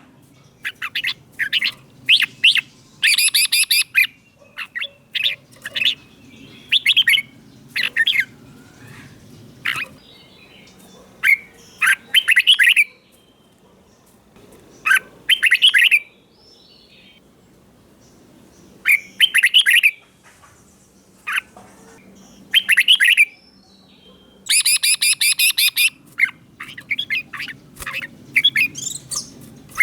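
Red-whiskered bulbul singing: short, bright phrases of quick notes, repeated again and again with pauses of one to three seconds between them.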